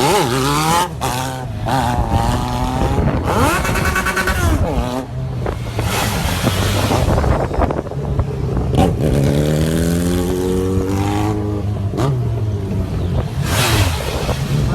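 Engine revving, its pitch rising and dropping back several times, with a few abrupt breaks between runs.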